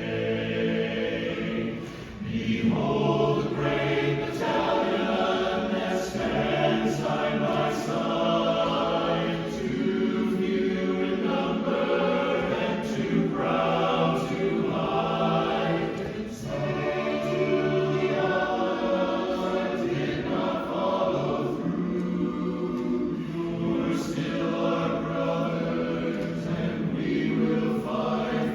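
A chorus singing in close harmony, apparently without accompaniment, holding sustained chords, with short breaks about two seconds in and again around sixteen seconds.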